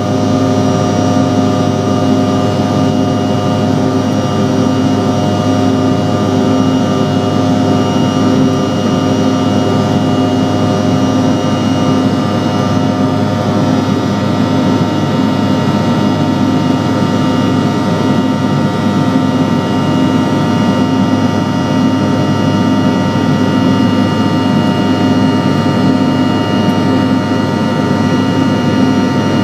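Bombardier CRJ700 regional jet's two rear-mounted General Electric CF34 turbofans running steadily, heard as a loud, even cabin rush with a set of constant whining tones layered over it.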